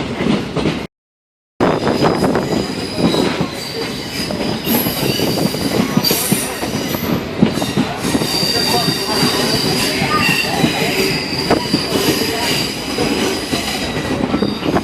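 Passenger train rolling along the track: a steady rumble and clatter of the cars, with high wheel squeal joining in from about four seconds in. The sound drops out completely for under a second about a second in.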